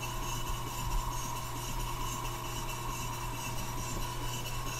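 Sipp model steam engine running steadily: an even mechanical hum with a constant whine and hiss, and no separate strokes standing out.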